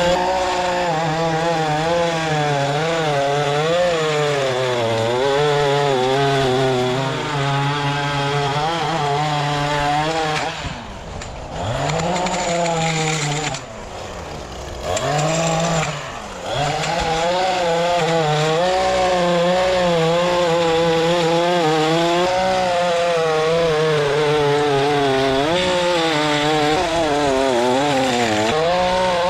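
A small high-revving petrol engine of lawn equipment runs steadily under load, its pitch wavering as it works. Around the middle it is throttled down briefly a few times, then comes back up to full speed.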